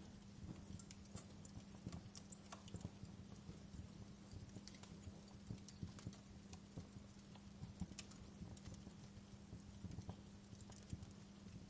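Wood fire crackling: irregular sharp pops and snaps, several a second, over a soft steady hiss, with a faint steady low hum underneath.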